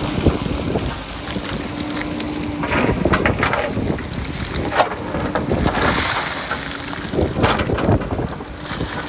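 JCB backhoe loader's diesel engine running, with wind buffeting the microphone. Several sharp crunching knocks come through about three, five and seven and a half seconds in.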